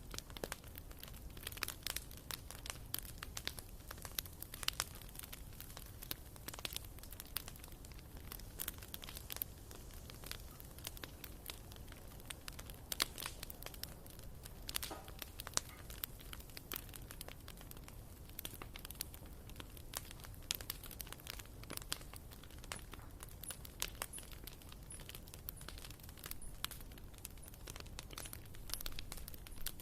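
Wood fire burning in a fireplace, crackling with irregular sharp pops and snaps of firewood over a low steady rumble of the flames.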